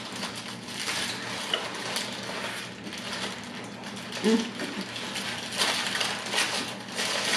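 Close-miked chewing of burgers, with irregular wet mouth clicks and smacks and the paper burger wrappers crinkling. A short hummed "mm" about four seconds in.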